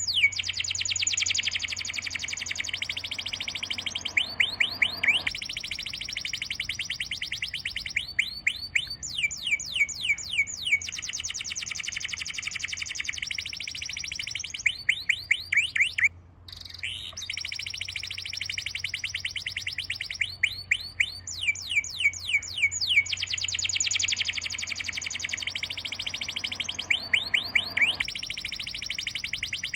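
Bird song: fast, repeated trills of high sweeping chirps, with a brief break about halfway through.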